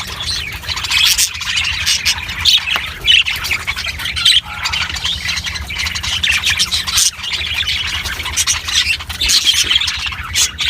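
A flock of lovebirds squawking and chattering without pause, many shrill calls overlapping, over a steady low hum.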